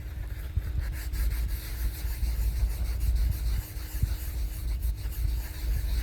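Paper towel rubbing and scrubbing on the top of an engine piston, wiping off grime and rust, a steady rough rubbing with small ticks.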